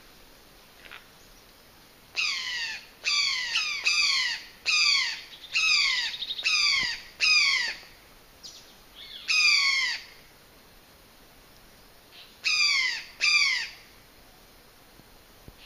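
A bird calling: about a dozen loud, harsh calls, each a short note sliding steeply down in pitch. They come in a quick run of about ten, then two more after a pause of a couple of seconds.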